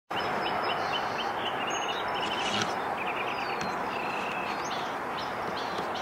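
Small birds chirping in quick runs of short high notes over a steady hiss of distant traffic.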